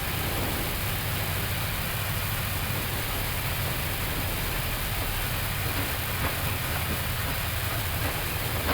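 Flight-deck noise of an Airbus A321neo rolling out on the runway after touchdown, engines at idle reverse and brakes applied manually: a steady low rumble under an even hiss, with a couple of faint clicks.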